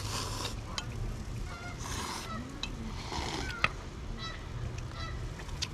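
Geese honking in a series of short calls, mixed with a few brief hissy rushes and clicks.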